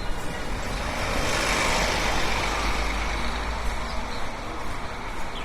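A motor vehicle driving past on the road, its engine and tyre noise swelling to a peak about two seconds in and fading away over the next couple of seconds.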